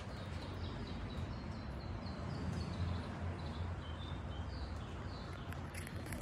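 A bird chirping repeatedly in quick short notes over a steady low outdoor hum.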